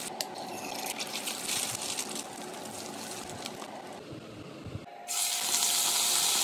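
Hot oil sizzling and crackling around an egg frying in a non-stick pan. About five seconds in it cuts to a louder, steadier sizzle of diced meat frying.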